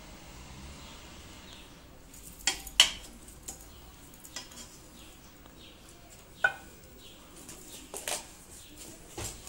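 Scattered sharp clinks and knocks of hand tools and plastic pipe fittings being handled during a water pipe repair: about five in all, the loudest a pair about two and a half seconds in.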